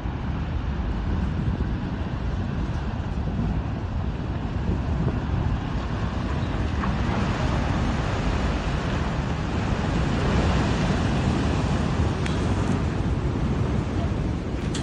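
Wind blast of an avalanche's snow-dust cloud buffeting the microphone: a dense, steady rush of noise, heaviest at the low end, swelling a little louder about halfway through.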